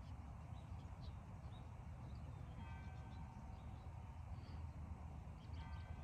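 Open-country ambience: a steady low rumble with faint, scattered high bird chirps. Twice, near the middle and again at the end, a short steady-pitched call sounds in the distance.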